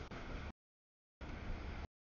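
Freight cars rolling past on the rails, a steady low rolling noise with no bells or horn. The audio feed drops out completely twice: after about half a second, and again just before the end.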